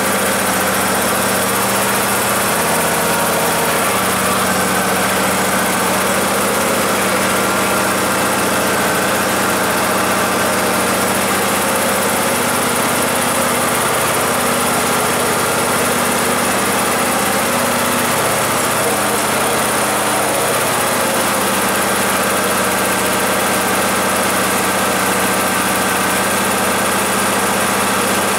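Husqvarna YTH24K48 garden tractor's 24-horsepower engine idling steadily after a cold start, its pitch wavering slightly for a few seconds in the middle.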